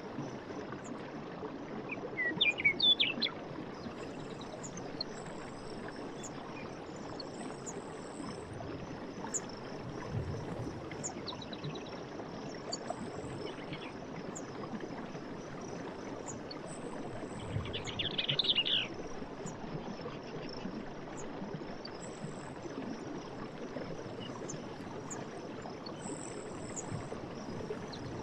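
Night forest ambience: a steady wash of background noise with insects trilling faintly and high. A bird calls loudly in a quick chirping series twice, about two seconds in and again around eighteen seconds.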